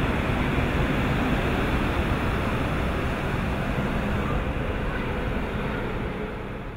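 Electric commuter train pulling away along a station platform, its wheel and running noise a steady rumble that fades over the last couple of seconds as the end of the train clears.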